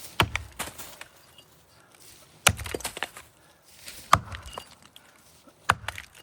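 Axe chopping into the trunk of a large maple tree: four heavy strikes about a second and a half apart, each followed by a few lighter knocks.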